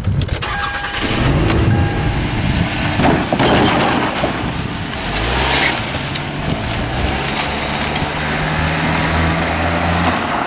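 Toyota Camry sedan's engine being started with the key, then revving and running steadily.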